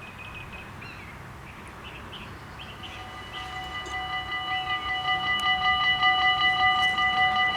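Birds chirping, then about three seconds in the level-crossing warning bells start ringing, a rapid, steady electronic ringing that grows louder, signalling the crossing is closing for an approaching train.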